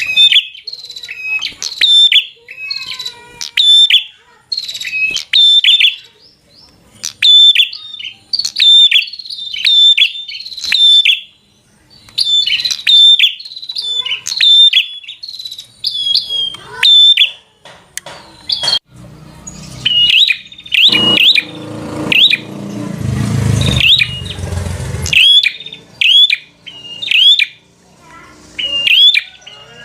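Prinia (prenjak) singing its agitated 'fighter' song: rapid bursts of sharp, clicking chirps, repeated about once a second. A low rumbling noise joins for several seconds past the middle.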